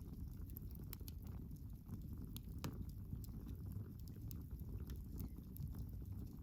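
Wood campfire burning: a steady low rumble of flames with irregular sharp crackles and pops from the burning wood, a few every second.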